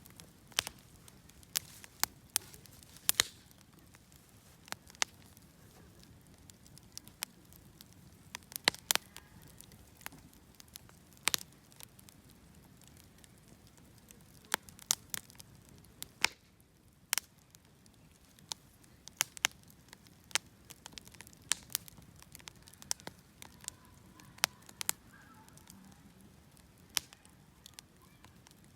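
Wood bonfire crackling, with sharp irregular pops and snaps several times a second over a low steady rush of the flames.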